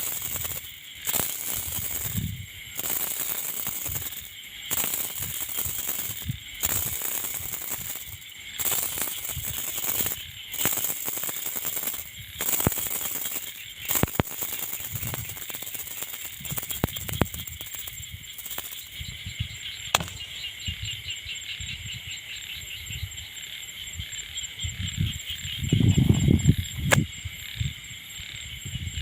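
Strong wind gusting over the microphone, a rough rushing that swells and drops about every second and eases after the middle, with one heavy low gust near the end. A steady high chirring runs underneath, and a few sharp clicks come through.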